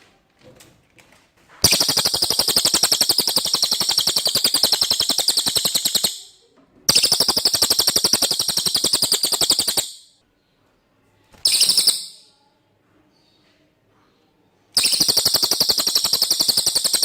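Cililin singing: long, very fast high-pitched trills of evenly repeated notes, each run lasting about four seconds with short pauses between. There are three long runs and one brief burst.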